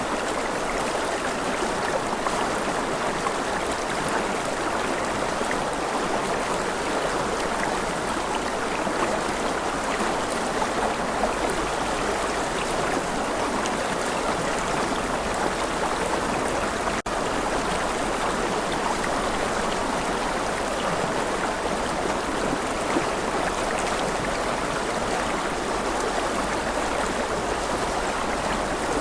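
Steady rush of a flowing stream, water running continuously over rocks with light gurgling. There is a momentary dropout a little past halfway.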